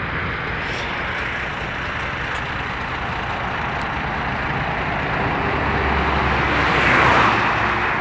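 Heavy road vehicle noise: an engine running with a steady rumble and road hiss, growing louder to a peak about seven seconds in before easing off.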